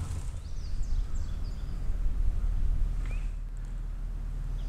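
Outdoor ambience: a steady low rumble with a few faint bird chirps, mostly in the first second and a half.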